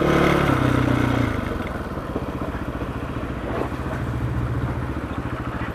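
Rally dirt bike engine, its revs dropping over the first second or so, then running steadily at low revs with an even pulsing note.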